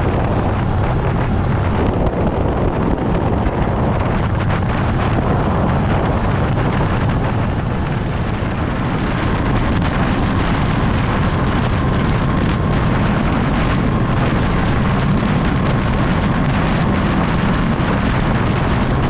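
Motorcycle engine running steadily at road speed, nearly buried under heavy wind rush on the microphone.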